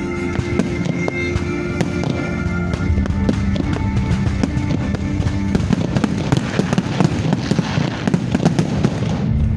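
Fireworks going off in quick succession, many sharp bangs over loud music, the bangs growing denser after about five seconds and cutting off suddenly near the end.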